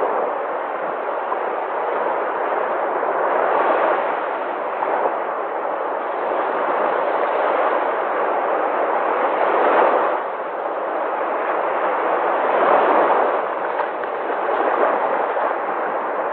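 Sea waves breaking and washing in: a continuous rushing noise that swells and eases every few seconds, with louder surges about four, ten and thirteen seconds in.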